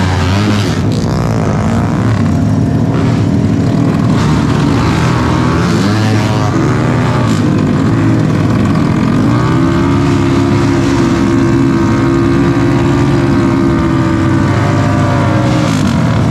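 Tuned racing motorcycle engines revving at a drag-strip start line, blipped up and down; about nine seconds in the revs climb and are held high and steady for several seconds before dropping back.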